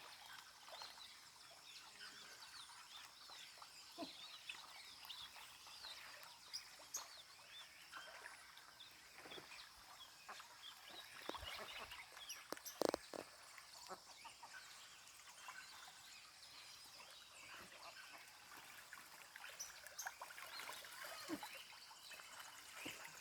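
Faint chorus of many birds chirping and calling over one another, with a single sharp knock about thirteen seconds in.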